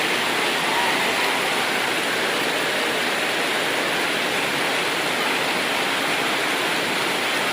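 Heavy rain pouring down, a steady even rushing of water.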